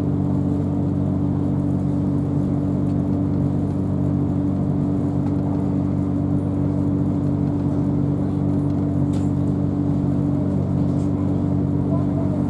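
Inside a Class 377 Electrostar electric multiple unit running at a steady speed: a constant hum made of several low tones over continuous wheel-and-track rumble.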